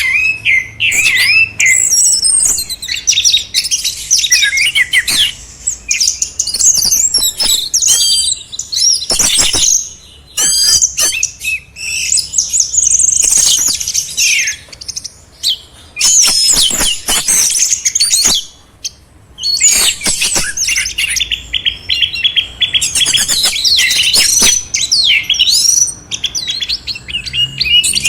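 Songbirds singing in a dense, near-continuous stream of fast, varied high chirps, slurred whistles and trills, with only brief pauses about ten and nineteen seconds in.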